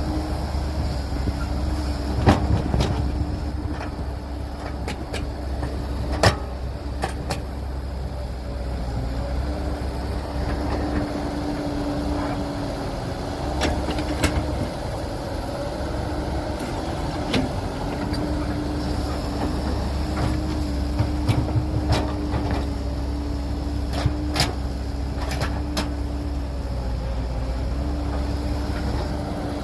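Heavy diesel earth-moving machinery running steadily, with a low rumble and a steady engine note that dips and returns a few times. Scattered sharp knocks and clanks sound throughout, the loudest about 2 and 6 seconds in.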